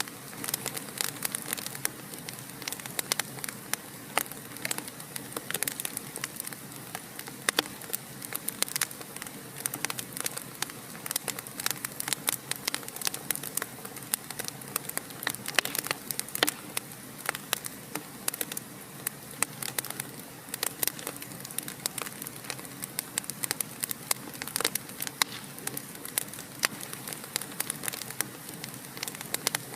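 Wood fire crackling: a constant soft hiss with many sharp pops and snaps, several a second and uneven in loudness.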